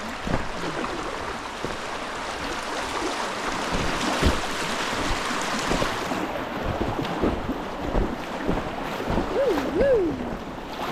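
Rushing river water around an inflatable kayak running a fast stretch, with wind buffeting the microphone and occasional knocks against the boat. A short wavering voice sound comes near the end.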